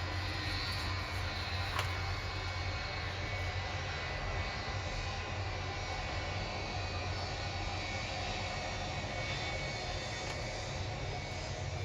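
Boeing 757-200 jet engines running steadily: a constant low hum under an even rush of noise.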